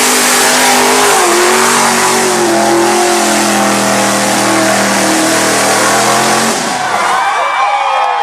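Truck engine at high revs under full throttle with a wide hiss over it; the pitch rises at the start, shifts up in steps, holds high, then drops away about seven seconds in. Crowd voices follow near the end.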